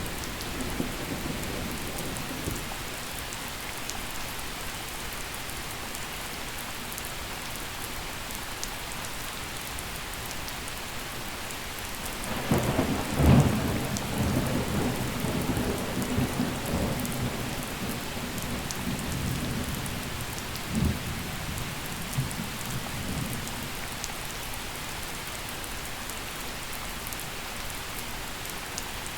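Steady gentle rain falling, with a roll of thunder about halfway through: a sharp crack that swells into a rumble and dies away over several seconds, followed by a short second crack a few seconds later.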